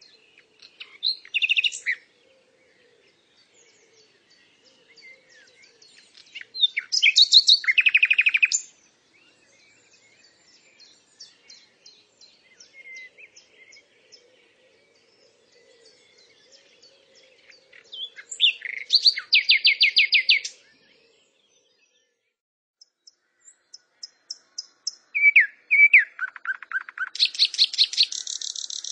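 A songbird singing: four loud phrases of fast trills and chirps, with scattered quieter chirps between them.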